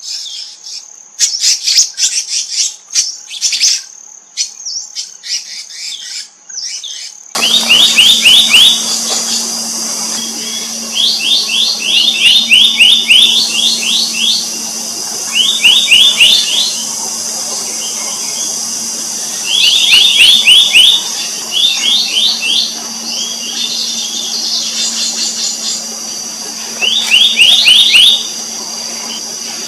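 Black-naped monarchs calling: short, quick runs of rapid repeated notes, coming back every few seconds, over a steady high insect buzz. About seven seconds in the background changes abruptly and a low steady hum comes in under the calls.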